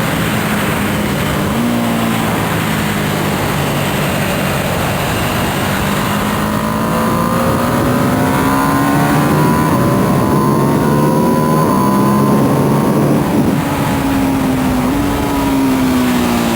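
Ducati Panigale V2S's V-twin engine heard onboard at track speed, its pitch climbing slowly through the middle and changing in steps with gear changes, under loud wind rush.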